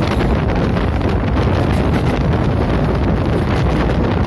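Wind buffeting the microphone over the steady rumble of a fast-running express train, its wheels on the rails, at around 90–105 km/h.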